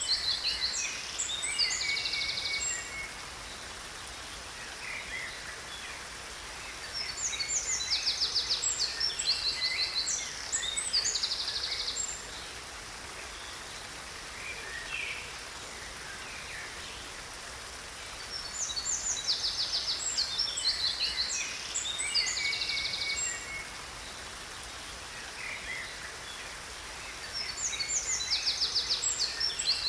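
Songbirds chirping and trilling in bouts of a few seconds that return about every ten seconds, over the steady rush of a waterfall.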